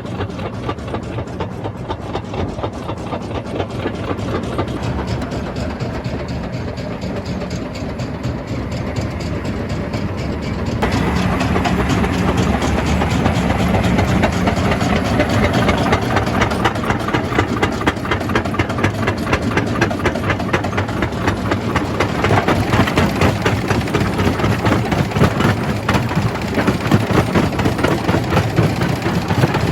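Jaw crusher running and crushing rock: a steady heavy machine drone with a dense clatter of stone being broken, growing louder and harsher about a third of the way in.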